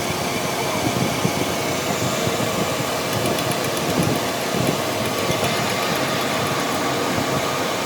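A machine running steadily: a continuous mechanical hum holding several steady tones, with scattered light clicks.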